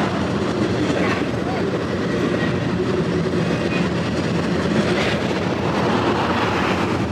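Freight train of enclosed autorack cars rolling past close below: a steady rumble of steel wheels on the rail, with a few faint knocks.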